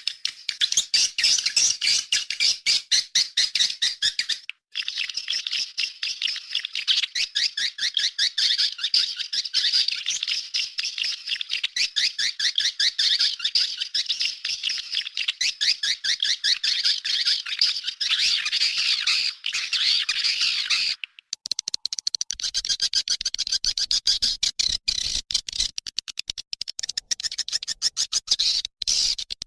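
Swiftlets twittering: a dense, rapid, high-pitched chatter of clicking calls that goes on almost without pause. It breaks off briefly about 21 seconds in, then carries on slightly higher.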